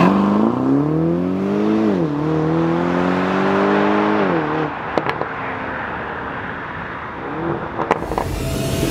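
2021 Aston Martin DBX's 4.0-litre twin-turbo V8 accelerating hard away, its revs climbing through two quick upshifts and then fading into the distance, with two sharp cracks after the second shift. Music swells in near the end.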